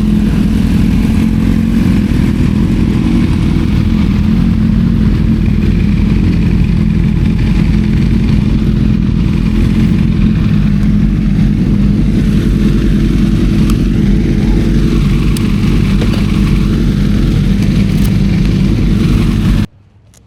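Motorcycle engine running loud and steady, stopping abruptly near the end.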